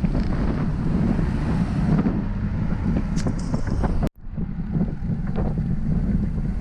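Wind buffeting the microphone of a camera on a moving bicycle, a steady low rumble, with a brief cut-out to silence about four seconds in.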